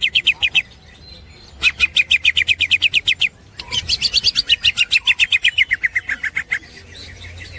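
Green leafbird (cucak ijo) giving its 'ngekek' chatter: fast runs of sharp repeated notes, about eight a second, in three bursts, the longest sliding down in pitch near its end.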